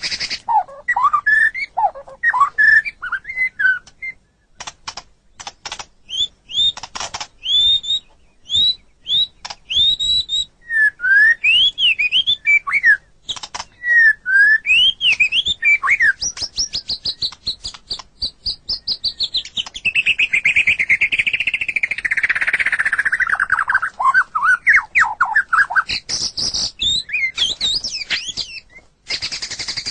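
White-rumped shama (murai batu) singing a varied song of whistled notes, sharp clicking chips and quick rising and falling phrases, with a long descending trill about two-thirds of the way through.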